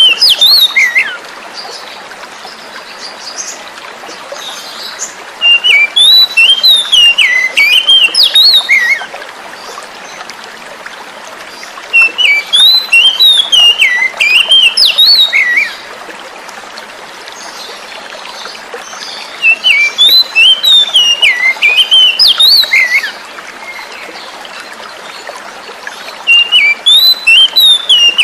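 Oriental magpie-robin (kacer) singing loud bouts of rapid, swooping whistled phrases about three to four seconds long, roughly every seven seconds. Steady flowing water runs beneath the song throughout.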